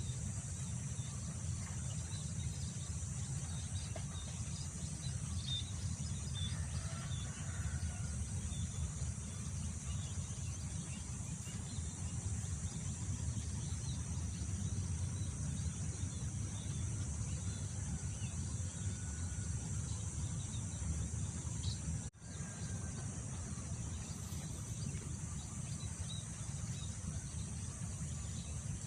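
Wind rumbling on the microphone over a steady high insect drone, with scattered faint bird chirps. The sound cuts out for a split second about two-thirds of the way through.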